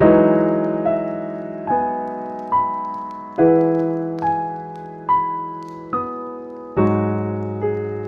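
Slow, gentle solo piano music: single notes struck roughly once a second, each ringing and fading, with fuller chords at the start, about halfway through and near the end.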